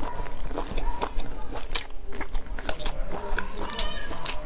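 Mouth sounds of a person eating: wet chewing and biting with many sharp, quick crackling clicks.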